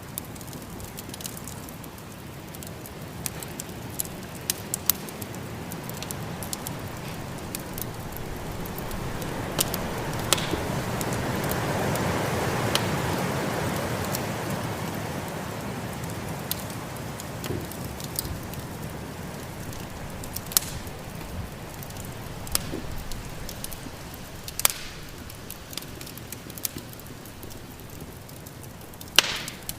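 Wood fire in a fireplace crackling, with scattered sharp pops and a louder pop near the end, over a steady rush of snowstorm wind that swells to a gust midway and dies back.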